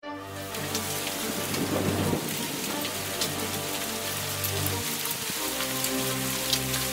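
Cloudburst of heavy rain mixed with hail falling on a wet road: a steady hiss of rain with scattered sharp ticks of impacts. Low held tones sit underneath, changing every couple of seconds.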